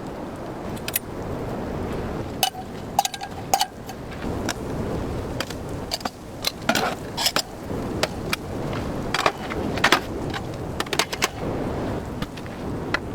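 Irregular sharp clicks and knocks, some in quick clusters, over a steady wind-like rush.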